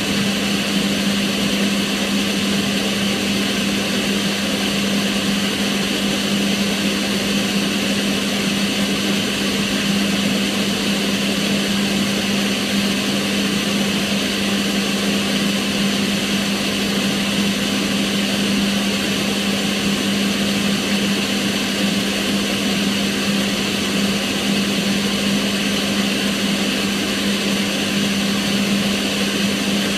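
Kitchen range hood's extractor fan running steadily: an even rush of air with a constant hum underneath.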